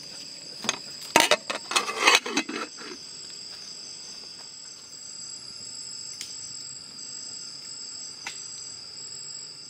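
Steady, high-pitched chorus of insects. It is overlaid in the first three seconds by a cluster of sharp knocks and clatter, which is the loudest part.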